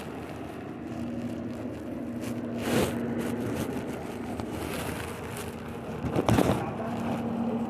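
Steady low hum of an outdoor scene with a faint steady tone, with brief rustling scrapes twice, about three seconds and six seconds in.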